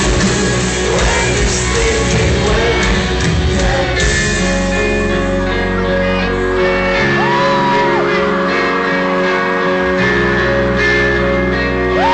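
Rock band playing live in a large hall, with singing and crowd shouts over loud guitars. About four seconds in, the band settles into a held, ringing chord.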